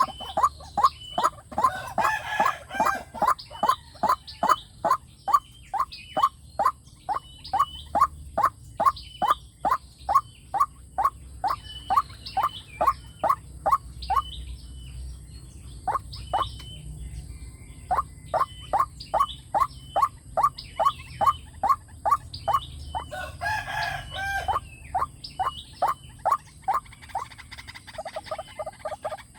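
White-breasted waterhen calling: a monotonous 'kook' note repeated about twice a second, with a short pause midway. Twice a fuller, rougher call briefly overlaps the series.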